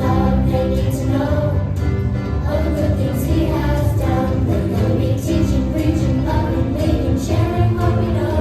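Gospel song: a choir singing over a band with a steady beat and strong bass.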